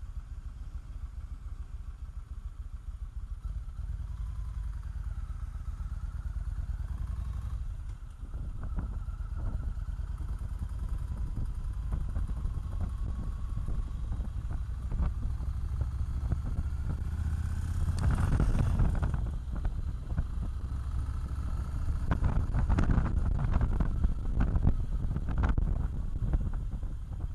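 Motorcycle engine running on the move, its pitch rising and falling with the throttle, getting louder about two-thirds of the way through and again near the end.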